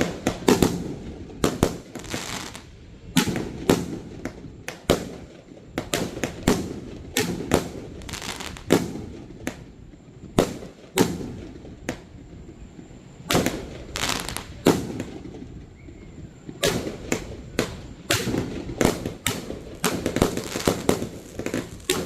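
Fireworks launching and bursting in a rapid, irregular run of bangs and booms. The bangs come thickest near the end.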